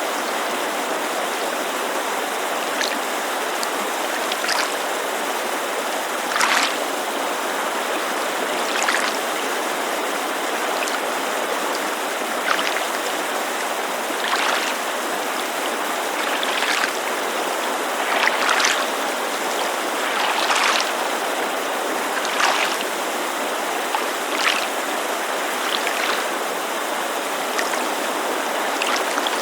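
Small waves lapping against a lakeshore in soft splashes about every two seconds, over the steady rushing hiss of a mountain creek.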